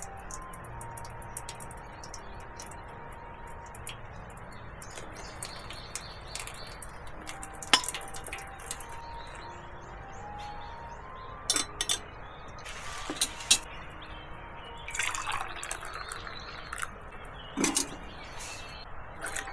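Soft background music with a slow, simple melody, over scattered small clicks and clinks of things being handled, with a short spell of liquid dripping and pouring.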